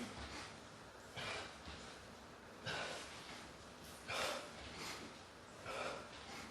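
A man exhaling hard in a steady rhythm, one sharp breath about every second and a half, the exertion breathing of someone doing sit-ups.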